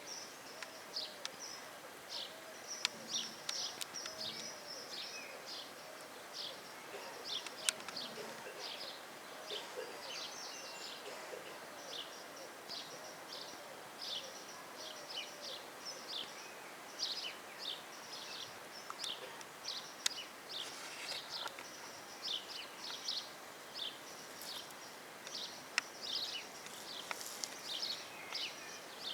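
Birds chirping rapidly and continuously in high, short notes, with soft low clucking from Light Sussex hens during roughly the first ten seconds.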